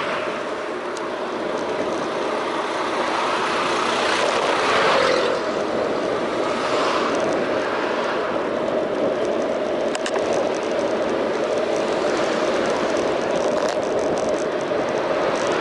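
Steady street traffic noise heard while riding a bicycle, with wind on the action camera's microphone. Vehicles swell past about four to five seconds in and again near seven seconds.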